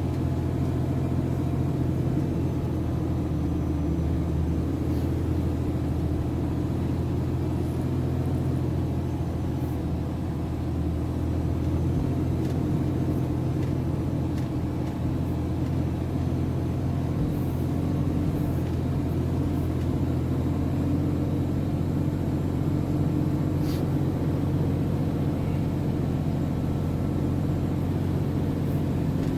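MAN TGS 33.480 truck's diesel engine running steadily at low revs, a constant low drone with no clear rise or fall.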